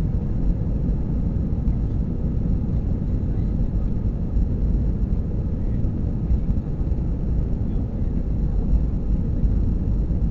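Airbus A320 cabin noise heard from a passenger seat during takeoff: a steady low rumble of the engines and the airframe, with no rise or break.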